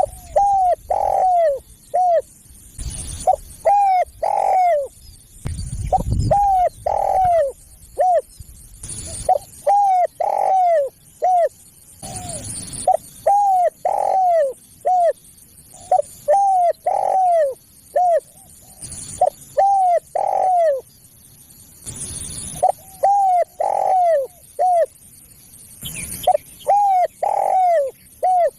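Spotted dove cooing: repeated phrases of several arched coos, one phrase about every three seconds, with short bursts of hiss between some phrases. It is a caller recording used to lure spotted doves.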